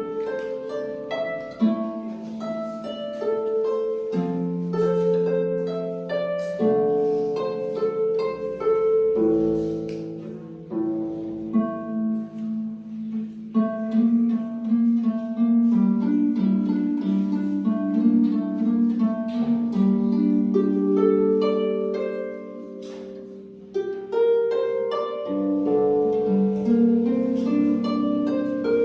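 Harp playing a Chinese folk tune: a melody of plucked, ringing notes over lower notes played together with it. About four-fifths through the playing softens for a moment, then picks up again.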